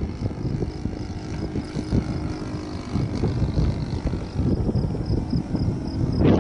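Strong wind buffeting the microphone in low rumbling gusts, over the faint steady drone of a radio-controlled Midwest Citabria model plane's motor in flight.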